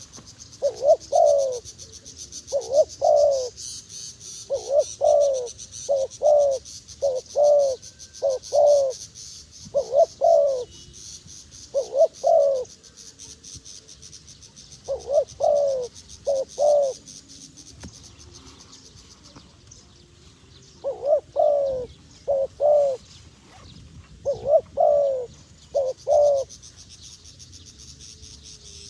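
A dove cooing in repeated short phrases of two or three low notes, with a longer pause in the middle. A steady high-pitched buzz runs in the background.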